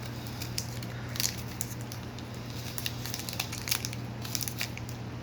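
Chewing a Power Crunch peanut butter cream bar with crisp wafer layers: irregular crunching and crackling bites, with a steady low hum underneath.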